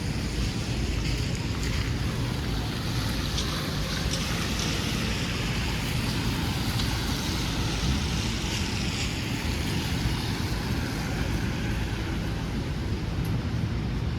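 City street traffic noise: a steady low rumble of engines, with the hiss of a vehicle's tyres swelling and fading as it passes a few seconds in.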